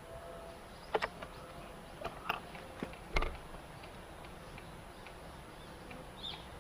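A few sharp snaps and crackles in quiet forest, about one to four seconds in, as of footsteps on dry twigs and leaf litter in the undergrowth.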